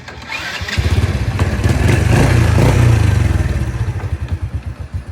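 Honda Wave motorcycle's small single-cylinder four-stroke engine catching about a second in. It is revved up, then eases back to a steady pulsing idle.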